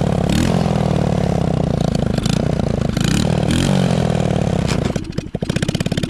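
Small single-cylinder engine of a Chinese 110cc ATV, revving up and down while the quad is ridden. About five seconds in it falls off and nearly stalls, then catches again and runs on with each firing stroke heard separately.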